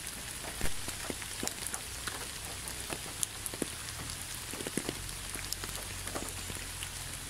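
Steady rain falling, an even hiss scattered with small drop ticks, with a low steady hum beneath it.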